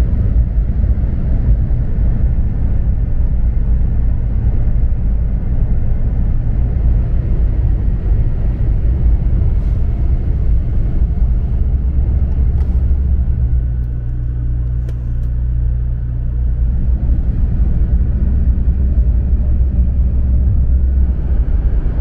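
Inside the passenger car of a 500 series Shinkansen running at speed: a steady, deep rumble of the moving train.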